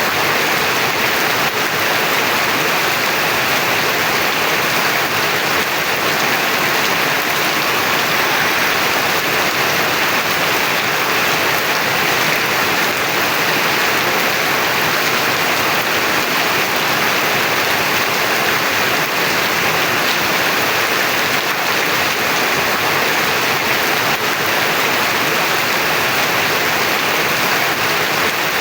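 Heavy rain pouring down, a steady, dense hiss with no letup.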